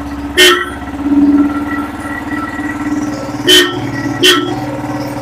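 Royal Enfield single-cylinder engine running through an aftermarket 'Punjab' silencer, with a short rise in engine sound about a second in. Three sharp, loud cracks are heard over the steady exhaust beat.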